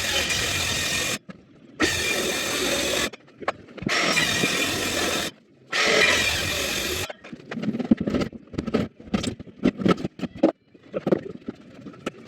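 A power saw cutting a square opening in a wall board: four runs of about a second each, then irregular knocks and scraping as the cut-out piece is worked free.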